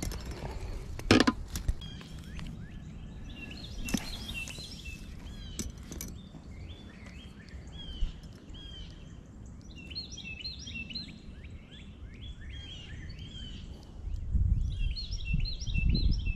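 Songbirds chirping repeatedly in short notes over a low rumble of outdoor noise that grows louder near the end. A sharp knock sounds about a second in.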